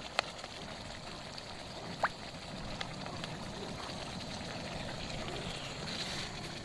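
Chicken cooking in a pan over a fire: a steady sizzling hiss, with a couple of sharp crackles near the start and about two seconds in.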